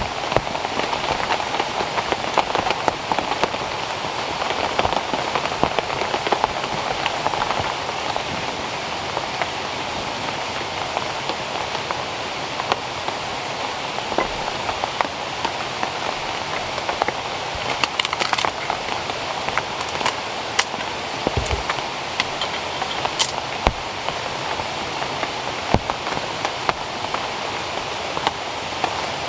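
Steady rain falling, a dense patter of individual drops striking a surface, with a few sharper drips after about eighteen seconds.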